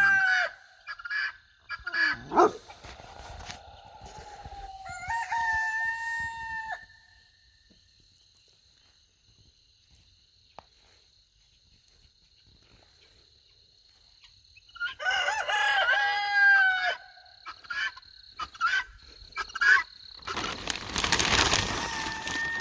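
A chicken calling loudly in long, drawn-out, pitched calls that hold and step up in pitch. After several seconds of quiet a second run of calls follows, then a loud rustling noise near the end.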